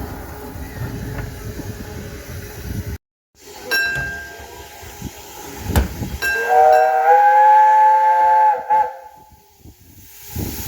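Miniature steam train running with a rumbling rail noise, then, after a brief cut, a short whistle toot followed by a loud chord-like steam whistle blast lasting about two and a half seconds.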